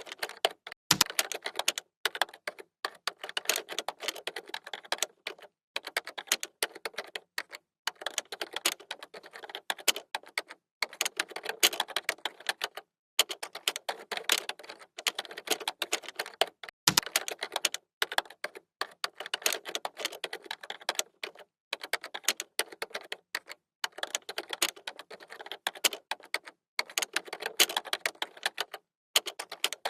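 Typing on a computer keyboard: fast runs of keystroke clicks, each a second or two long, with short pauses between runs. A dull low knock comes about a second in and again about halfway through.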